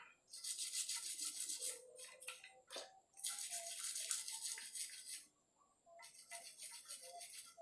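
A brush scrubbing rapidly back and forth at stubborn carbon crust on a part of a Yamaha RX-King two-stroke engine, in three spells with short pauses between.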